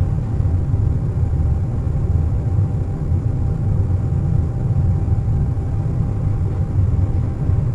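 Airliner cabin noise at cruise: a steady low rumble with a faint, even hum above it.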